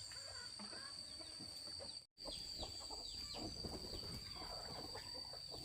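Farmyard chickens clucking, with a steady high-pitched drone behind them. The sound drops out completely for a moment about two seconds in.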